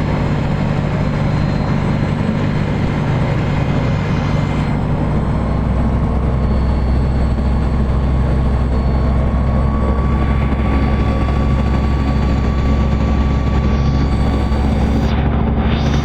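Aircraft engine running steadily, a low, even hum with no change in speed.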